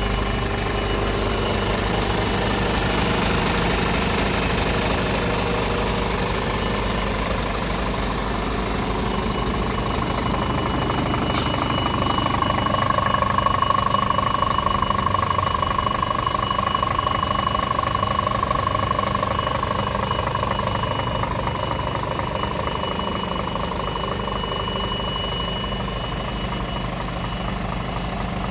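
Scania R450 tractor unit's 13-litre six-cylinder diesel engine idling steadily, with a higher hum swelling about halfway through and slowly fading.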